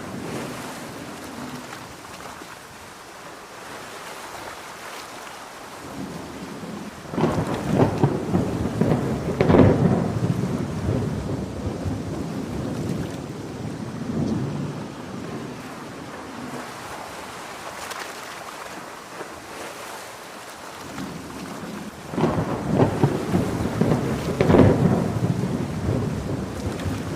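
Steady heavy rain with two long, crackling rolls of thunder, the first about seven seconds in and the second about a third of the way from the end.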